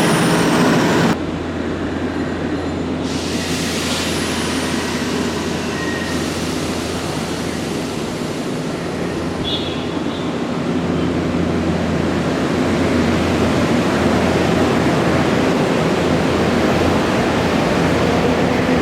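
Nankai electric train running along the platform: a steady rumble and rolling noise that drops suddenly about a second in and grows louder again about halfway through.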